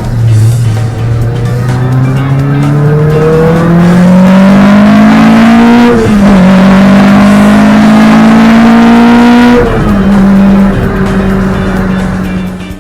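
Honda K-series four-cylinder in a Toyota MR2 Spyder accelerating hard. The engine note climbs steadily, drops at a quick upshift about six seconds in, climbs again, and drops at a second shift near ten seconds, then holds a steady pitch.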